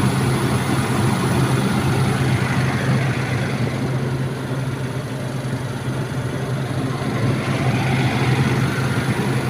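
Volvo EC210BLC excavator's diesel engine running steadily, easing slightly midway and swelling again near the end. It is running normally after the ECU was replaced to cure a no-start fault.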